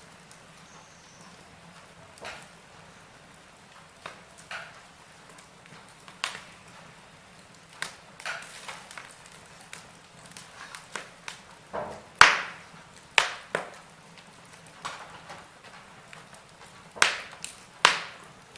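Wood fire in a fireplace crackling: irregular sharp pops and snaps over a faint steady hiss. The loudest pops come about twelve seconds in and twice near the end.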